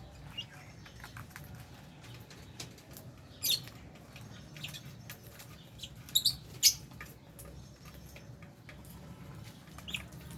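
Aviary lovebirds giving short, shrill chirps, loudest in a quick cluster about two thirds of the way through, over scattered soft clicks and pattering from the feeding flock and a steady low hum.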